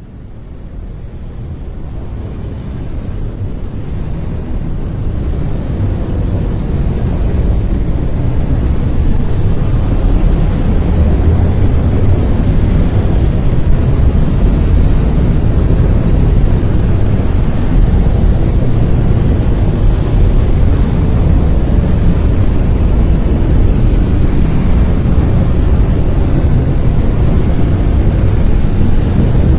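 Brown noise: a steady, deep rumbling hiss, heaviest in the bass, fading in over the first several seconds and then holding level.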